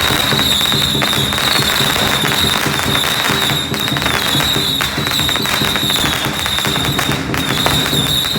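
Firecrackers and fireworks going off in a dense, continuous crackle, with a steady high-pitched tone running over it.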